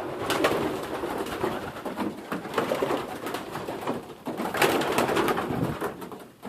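Young racing pigeons cooing in an enclosed loft, with scattered sharp clicks and taps among them.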